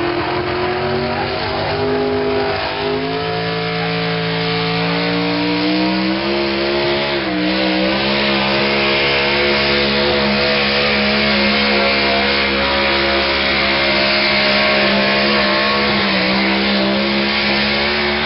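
Pulling truck's engine held at high revs under full load during a pull. Its pitch steps up over the first few seconds, then holds high and nearly steady, with the hiss of spinning tires and flying dirt building over it.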